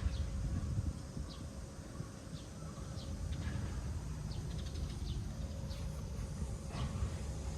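Small birds chirping now and then, short high calls spaced about a second apart, over a steady low outdoor rumble.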